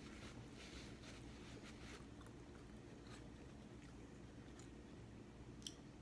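Faint chewing of food, soft wet mouth sounds, with a few light clicks over a low steady room hum.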